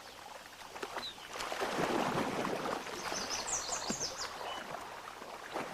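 Water splashing and churning as a wood buffalo and wolves struggle in shallow water, swelling about a second in, with a quick run of high chirping calls around three seconds in.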